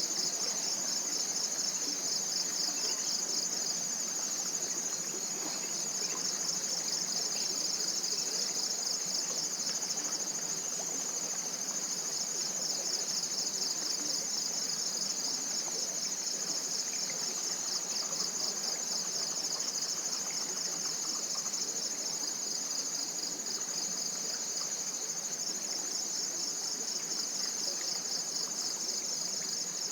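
Chorus of tropical forest insects: a continuous high-pitched trill with a fast, even pulsing beat, unchanging in level.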